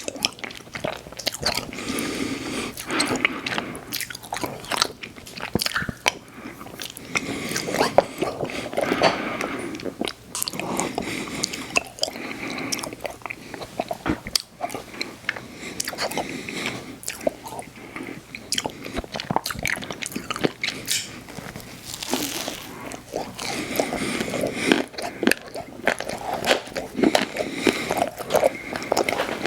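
Close-miked eating of ice cream desserts: big bites and chewing with crunching, in irregular bursts throughout.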